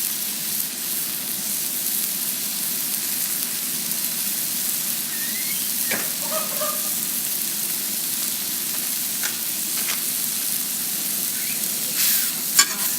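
Chicken sizzling as it cooks over heat: a steady high hiss, with a sharp click near the end.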